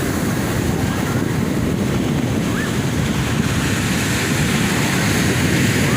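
Heavy surf from big ocean waves, a steady low rumble, with wind buffeting the microphone.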